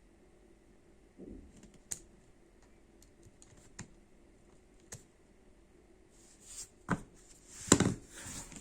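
Scattered sharp clicks with some rustling handling noise, a few seconds apart at first, then a louder cluster of clicks and rustle near the end.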